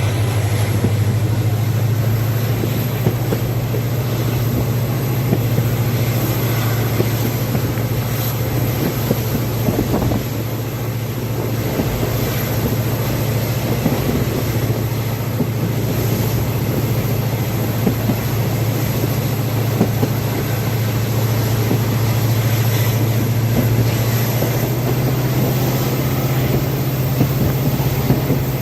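WDP4D diesel locomotive's EMD 16-cylinder two-stroke engine running steadily under power, a constant loud low drone, with scattered knocks from the train's wheels on the track.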